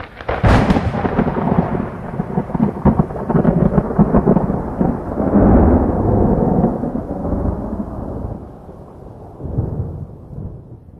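Thunder: a sudden sharp crack, then a long rolling rumble that swells again midway and dies away near the end.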